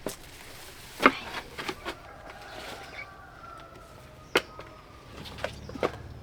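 A few sharp snaps and knocks, the loudest about a second in, as ripe fruit is picked by hand from a plant.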